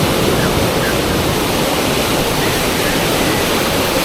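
Fast river water rushing steadily at a standing wave used for river surfing, a loud, even wash of noise.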